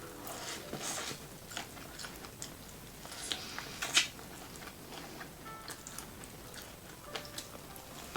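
Close-miked eating of seafood boil: wet chewing and mouth smacks with short crunchy bites at an uneven pace, the loudest bite about four seconds in.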